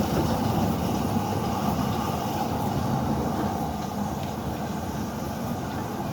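A train rolling along the track, a steady rumble that slowly fades as it moves away.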